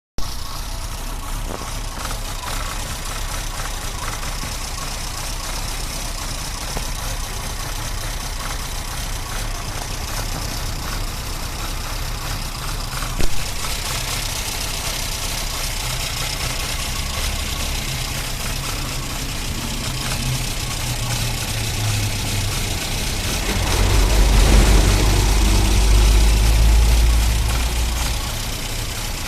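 Tofaş Doğan SLX car engine with an aftermarket Estaş 296-degree camshaft, idling steadily. There is one sharp click about halfway through. Near the end the engine gets louder for a few seconds and then settles back.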